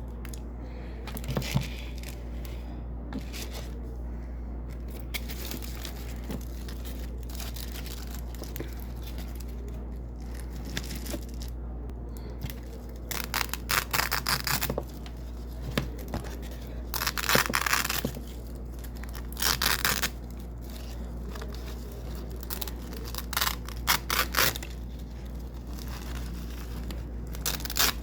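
Hook-and-loop (Velcro) tape being pulled apart from white hook tape and pressed back, giving crackly tearing in bursts. It is faint scratching at first and louder rips in the second half, the longest lasting about a second. A steady low hum lies underneath.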